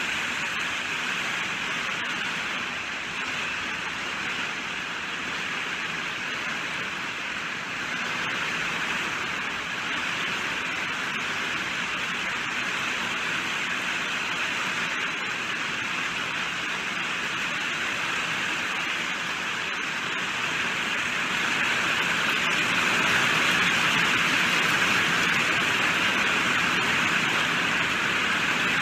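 Steady heavy rainfall, an even hiss of many drops with no single hits standing out, swelling slightly louder near the end.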